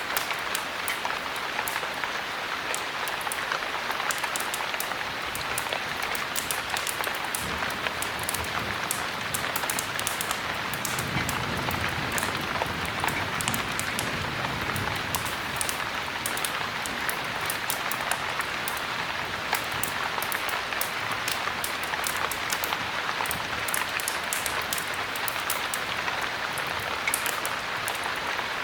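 Steady heavy rain, an even wash of noise with a dense patter of sharp drop ticks. A faint low rumble swells briefly around the middle.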